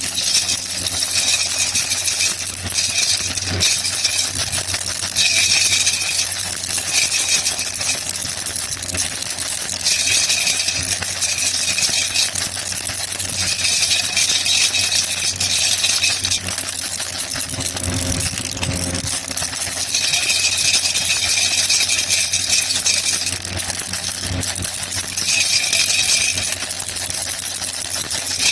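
Baby rattle (jhunjhuna) shaken without pause, a dense, continuous rattling that swells louder in stretches of two or three seconds every few seconds.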